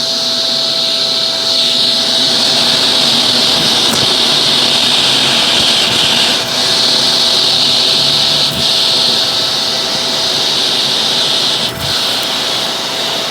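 Shark Professional Powered Lift-Away DLX (NV586) upright vacuum cleaner running steadily: a high rush of air over a steady humming tone. The sound dips briefly three times.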